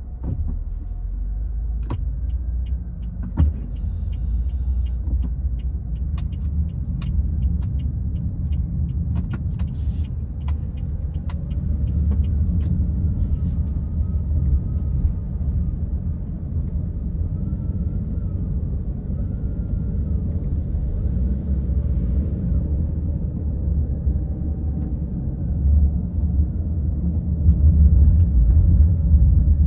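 Car driving along a road: a steady low rumble of engine and road noise, with a series of light ticks in the first third.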